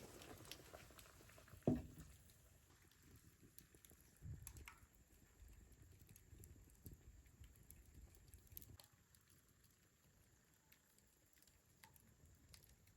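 Near silence with scattered faint clicks and one sharp knock about two seconds in.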